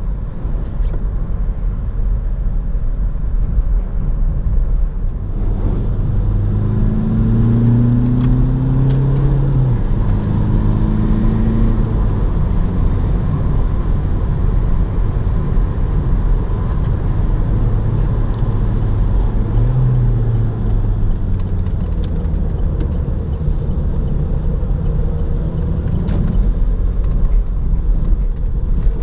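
Opel Astra 1.6 BiTurbo CDTI four-cylinder diesel driving at speed over a steady low road rumble. The engine note rises twice under acceleration, near a quarter of the way in and again past the middle.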